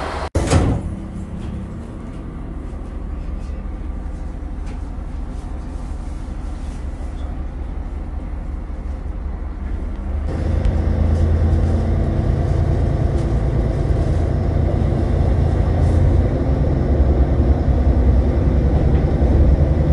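Diesel railcar running, heard from inside the passenger car: a steady low engine drone with rail and wheel rumble. About halfway through the drone gets louder and fuller.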